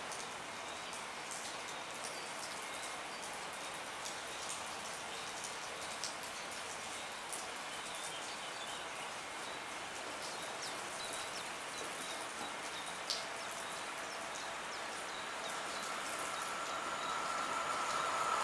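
Steady rain falling on the platform and track, with scattered raindrop ticks. In the last few seconds a train's approach rises under the rain, with a steady high tone growing louder.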